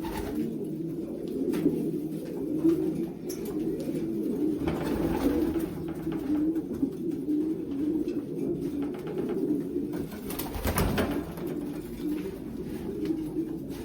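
Many racing pigeons cooing together in a loft, a continuous low warbling chorus, with a few soft knocks and rustles of handling.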